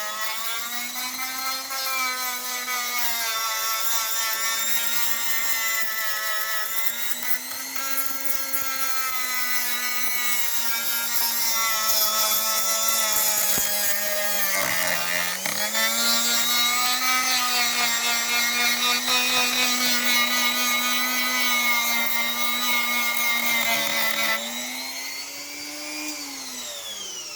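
Dremel rotary tool grinding curb rash off an alloy wheel rim, a steady high whine with a grinding hiss. Its pitch sags briefly about halfway through as it bites into the metal. Near the end the grinding stops, the pitch rises, then falls away as the tool winds down.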